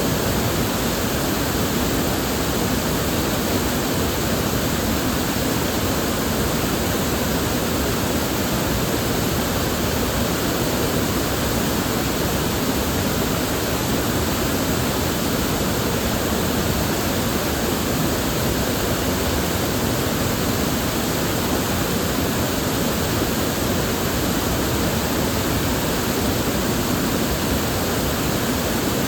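River water flowing and rushing over rocks: a steady, unbroken wash of noise with no distinct splashes.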